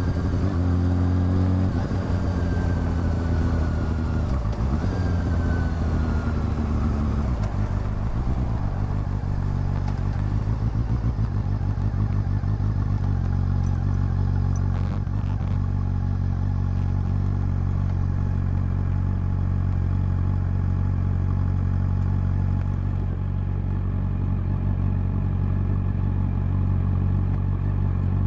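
Honda CB400 Super Four's inline-four engine and exhaust slowing down, with the engine note falling and stepping back up twice on downshifts, then idling steadily from about eight seconds in.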